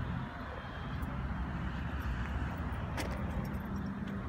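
A car engine idling steadily, a low even rumble with outdoor background noise over it.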